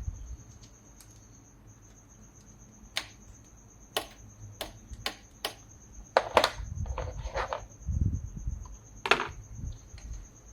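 Metal hand tools clicking and clinking against bolts on the engine while a thermostat housing bolt is worked loose. Single clicks come a few at a time, then a quicker run of clicks past the middle, followed by a low thump.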